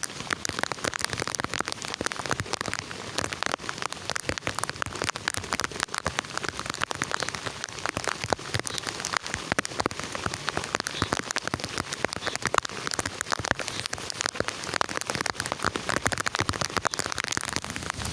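Heavy rain falling steadily, with many close drops striking a surface in a dense stream of sharp taps.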